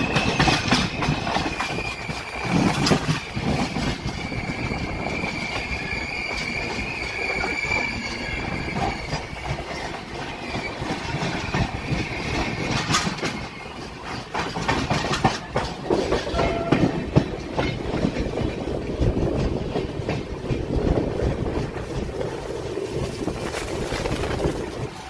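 Passenger train wheels running on the track, with scattered clicks over the rail joints. A high, wavering wheel squeal sounds through roughly the first third, then fades, leaving the rumble and clatter.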